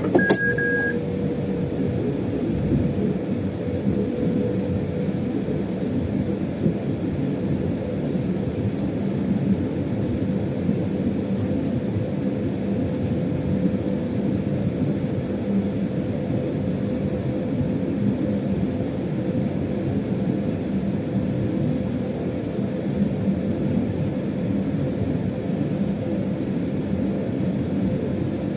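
Steady rumble of a freight locomotive heard from inside the driver's cab, with a faint steady hum running through it. A click and a short high beep sound right at the start.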